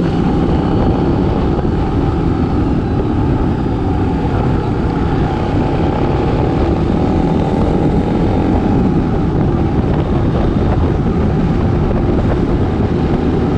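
Motorcycle and scooter traffic: a continuous heavy low rumble of engines and road noise, with engine pitches rising and falling as bikes speed up and pass.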